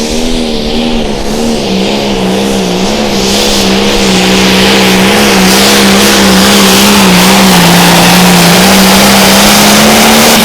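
Turbocharged diesel engine of an International pro stock pulling tractor running at full throttle under load during a pull. Its pitch wavers and it grows louder across the run, with the engine note dropping off right at the end as the throttle comes off.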